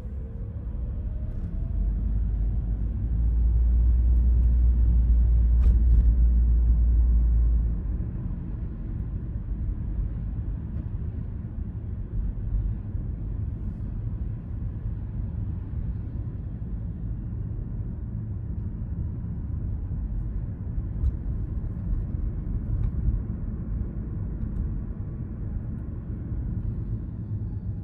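Car driving on suburban roads: a steady low rumble of engine and tyre noise. For about five seconds a couple of seconds in, the rumble swells much louder, then settles back.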